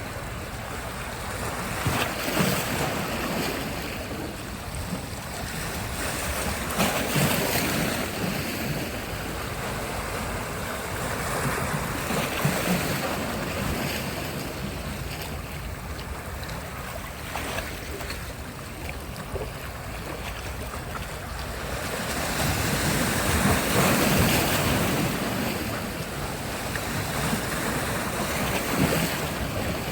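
Sea surf breaking on the shore, a steady wash of waves that swells louder and falls back every few seconds, with wind rumbling on the microphone.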